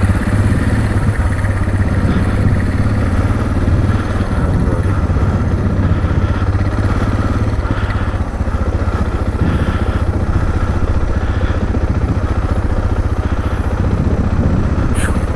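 Motorcycle engine running steadily at low revs, with no revving.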